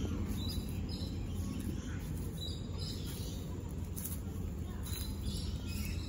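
Small birds chirping now and then in the background over a steady low rumble of ambient noise.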